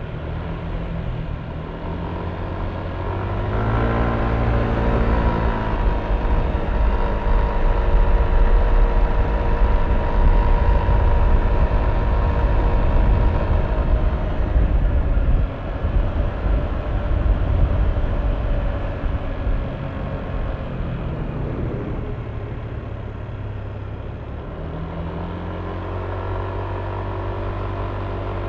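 Yamaha Aerox V3 scooter's 155 cc single-cylinder engine under way, its revs rising about four seconds in as it speeds up, then holding a steady note with wind buffeting the microphone. About twenty-two seconds in the revs fall as it slows, and it runs on more quietly near the end.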